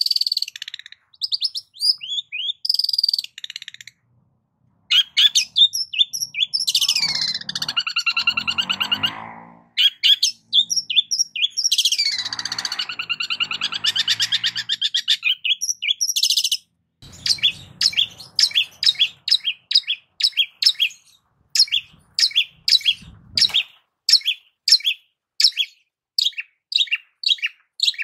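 Long-tailed shrike (cendet) singing a varied song: quick high chirps, then two long harsh, scratchy passages, then a steady run of short sharp calls at about two a second in the second half.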